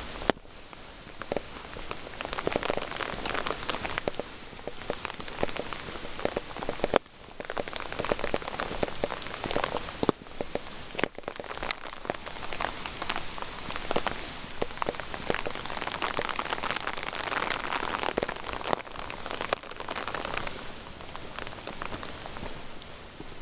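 Steady rain falling, with many individual drops ticking and pattering on hard surfaces.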